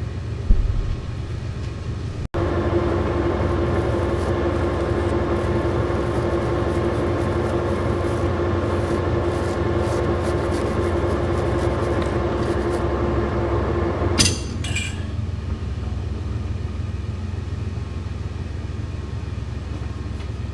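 An old Monarch engine lathe is running with a steady hum. From about two seconds in, a steady whine sits over the hum for some twelve seconds while a threading pass deepens the thread by about three thou. The whine ends in a brief sharp metallic clink.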